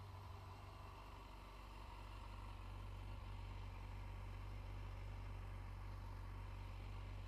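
Yamaha FZ8's inline-four engine idling steadily as a low hum, growing a little louder about three seconds in.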